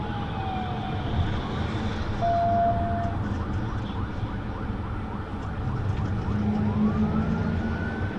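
Police car siren wailing, its pitch sliding down and then climbing again, over a steady engine and road rumble during a high-speed pursuit. A short steady tone sounds for about a second roughly two seconds in.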